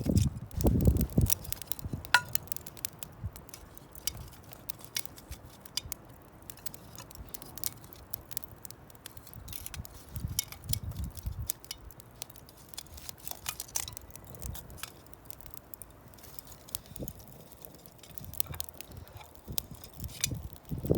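Wood fire crackling with scattered sharp pops, and a few dull knocks and handling thumps now and then.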